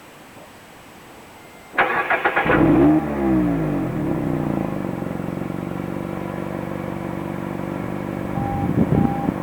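Mazda ND Roadster's 1.5-litre four-cylinder engine with stock exhaust being started: about two seconds in the starter cranks briefly, the engine catches and flares up in revs, which the car does on purpose at every start, then drops back and settles into a steady idle. Two short louder bursts come near the end.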